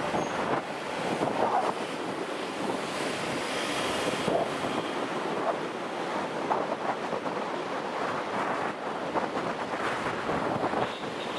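Wind rushing over the microphone of a camera on a moving motorbike: a steady noisy rush with no clear engine note.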